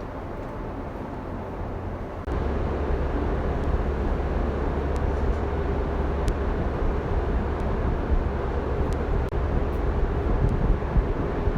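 Steady low rumble of a moving vehicle, which gets louder and heavier about two seconds in.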